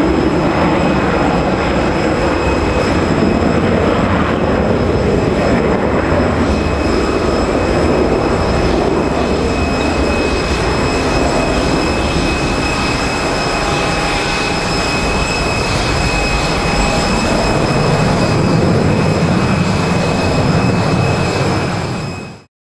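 A Boeing 737-200's Pratt & Whitney JT8D turbofans running at high power on takeoff: a loud, steady, rough jet roar with steady high-pitched whines over it. The sound cuts off abruptly near the end.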